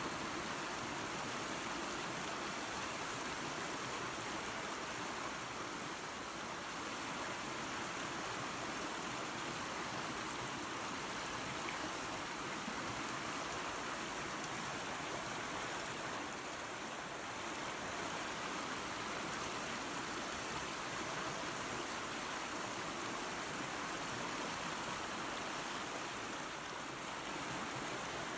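Small waterfall and creek running water: a steady, even rushing hiss with no breaks.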